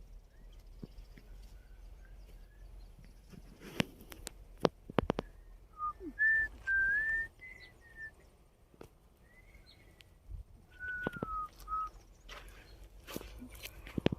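Two short phrases of clear whistled notes that glide up and down, with a few sharp clicks or knocks, the loudest of them about four to five seconds in.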